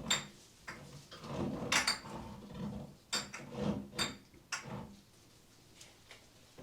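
Clinks and knocks of small hard objects, some with a brief glassy ring, being picked up and set down, with soft handling rustle in between. There are half a dozen or so over the first five seconds, then it goes quiet.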